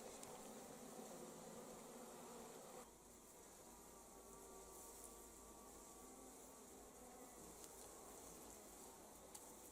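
Honeybees buzzing, a faint, wavering drone; it drops and changes about three seconds in.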